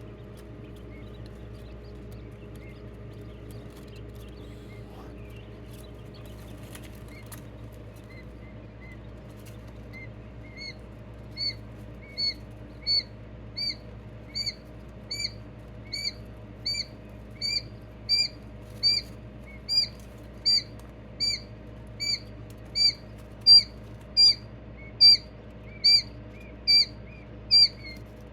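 Coturnix quail calling: a single short chirp repeated about one and a half times a second. The chirps are faint and sparse at first, then become regular and louder from about ten seconds in, over a steady low hum.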